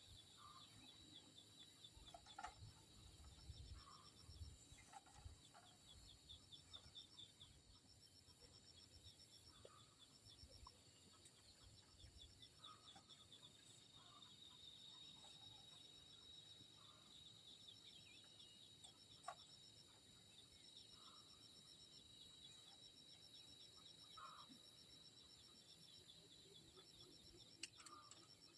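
Faint soft clucking from chickens, a short call every second or two, over a steady high chirring of insects.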